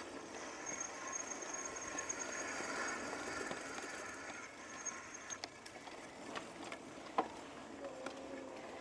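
Himiway B3 electric bike rolling along, a thin high motor whine over a steady rush of tyre and air noise, which turns louder and fluttering for about two seconds. After that come a few scattered clicks and knocks.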